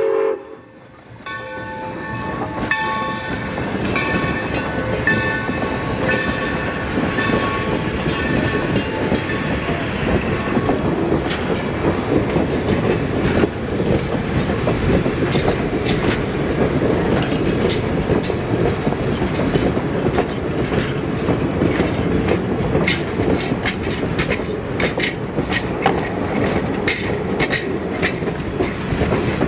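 A steam-hauled excursion train's passenger coaches and caboose rolling past with a steady rumble of wheels on rail. Sharp clicks of the wheels crossing rail joints come more and more often in the second half. A faint high ringing tone lasts the first ten seconds or so.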